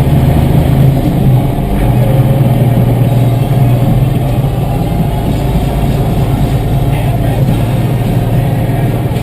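Tractor's diesel engine running steadily on the road, a loud, even low drone.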